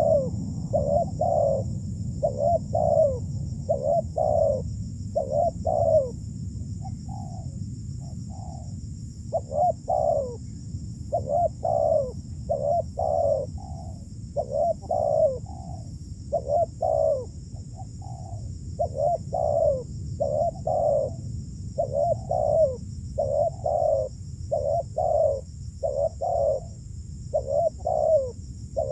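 Spotted doves cooing over and over, short mellow notes coming one or two a second, mostly in pairs, with a steady high-pitched hiss in the background.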